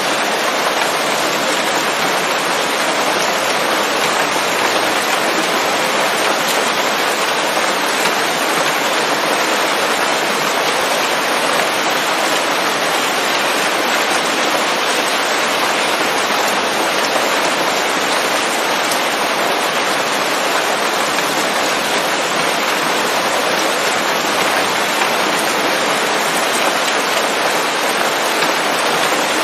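Steady heavy rain pattering on leaves, a dense even hiss with no thunder.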